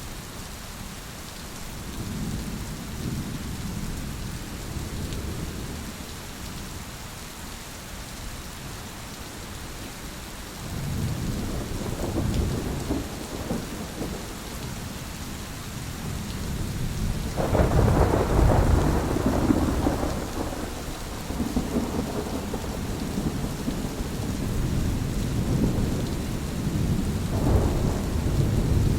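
Thunderstorm: steady rain with rolling thunder, low rumbles swelling and fading several times, the loudest peal coming a little past halfway and rumbling on for a few seconds.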